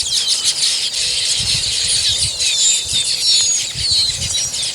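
A large flock of small red-billed finch-like birds chattering together in a tree. Many overlapping high-pitched chirps and twitters run on without a break.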